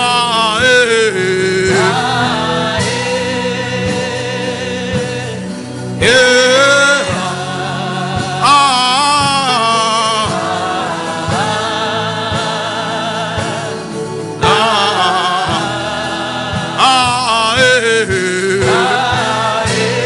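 Gospel music: singing with wavering, sustained vocal lines over sustained chords and a steady beat.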